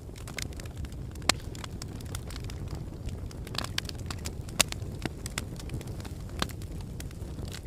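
Wood fire burning in a fireplace: a steady low rumble with irregular sharp crackles and pops, two of them louder, about a second in and near the middle.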